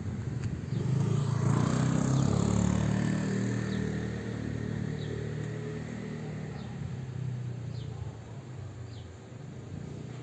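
A motor vehicle's engine passing by, swelling about a second in and fading away over the following seconds.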